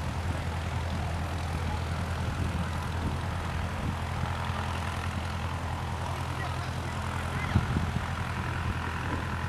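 Steady low engine drone with a faint hiss over it, and a single sharp knock about seven and a half seconds in.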